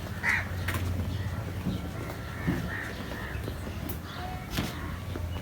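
A bird calling a few times in short calls over a steady low hum, with a couple of sharp clicks.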